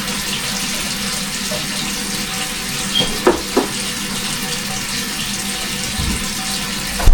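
Kitchen tap running steadily into a sink, with two short knocks a little over three seconds in.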